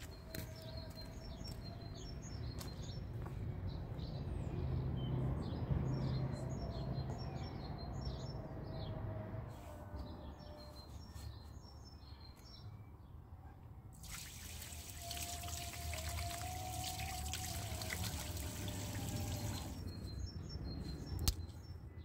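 Small birds chirping repeatedly. Partway through, water runs or pours steadily for about six seconds, starting and stopping abruptly.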